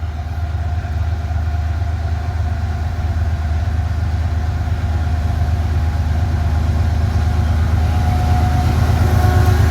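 Diesel freight locomotives running with a steady low engine rumble and a faint steady whine, slowly growing louder as the train approaches.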